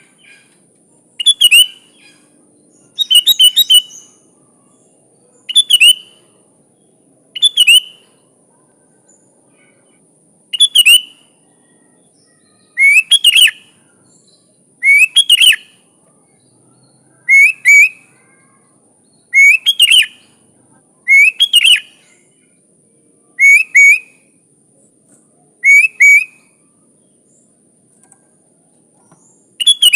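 Sooty-headed bulbul (kutilang) singing: short, loud, bubbly whistled phrases repeated about every two seconds, around a dozen in all, over a faint steady high-pitched tone.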